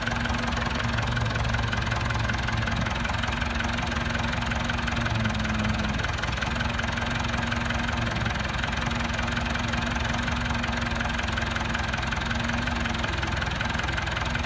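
Motor vehicle engine idling steadily, with a held humming tone that briefly drops out and comes back a few times.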